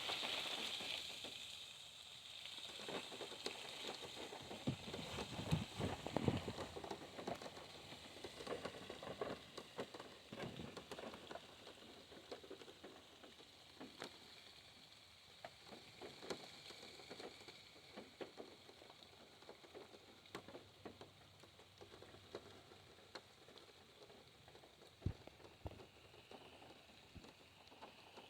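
Rain pattering irregularly on a car's roof and windshield, heard from inside the car: denser at first, then thinning to scattered drops.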